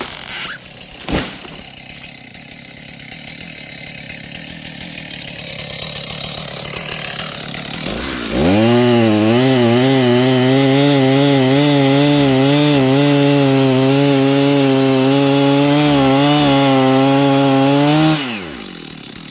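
Chainsaw revved to full throttle at about eight seconds and held there for roughly ten seconds, its pitch wavering slightly under load, then released and winding down. Before it there is a sharp thump about a second in and a rising rustling noise.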